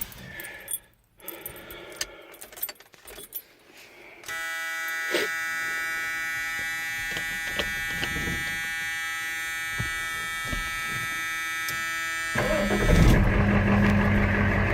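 Keys jangling, then a steady dashboard warning buzzer for about eight seconds while the Ford 6.9 L IDI V8 diesel waits on its glow plugs. About twelve seconds in, the diesel cranks briefly, catches on a cold start and runs, louder than the buzzer.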